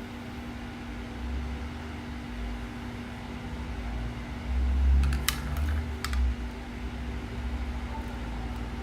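Steady electrical hum with low rumbling, and a short cluster of sharp clicks about five to six seconds in.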